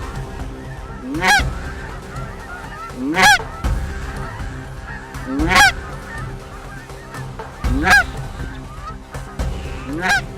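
Hand-blown short-reed Canada goose call giving a two-note honk, a rising cluck that breaks into a high note. It is blown five times at an even pace, about every two seconds, with a puff of breath at the start of each note.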